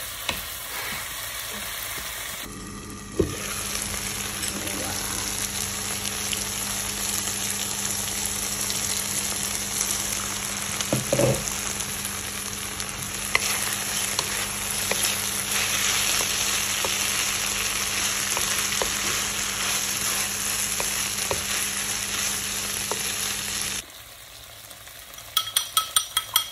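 A bitter melon, bacon and tomato stir-fry sizzling in a wok as it is stirred with a wooden spatula, with a few knocks of the spatula against the pan. Near the end the sizzle drops away and a spoon beats eggs in a ceramic bowl: a fast run of clinks, about five a second.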